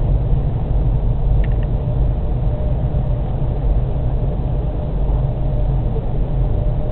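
Passenger train's running rumble heard from inside the coach as it slows into a station. A faint steady whine joins the low rumble about halfway through.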